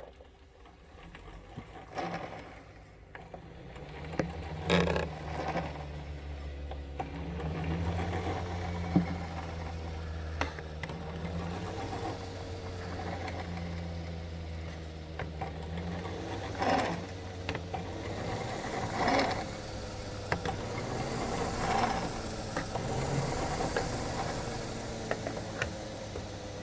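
Concept 2 rowing machine's fan flywheel whirring, swelling with each pull every two to three seconds, with sharp clicks among the strokes. The clicking and stutter at the start of the pull are a noise the owner can't place and fears is a fault.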